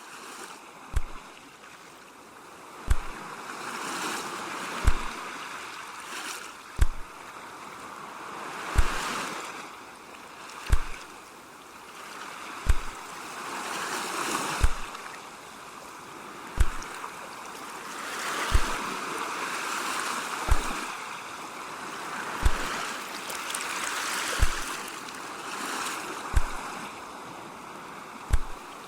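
Ocean waves washing in and drawing back, the rush swelling and fading every few seconds. A soft low thump repeats evenly about every two seconds over it.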